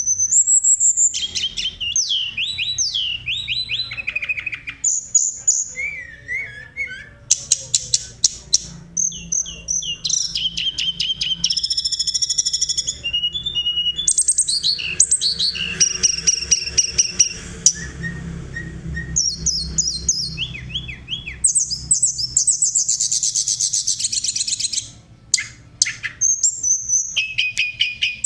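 Tledekan songbird singing continuously and loudly: fast rolling trills, rapid runs of falling notes and clear flute-like whistles, with a brief pause about 25 seconds in. A steady low hum runs underneath.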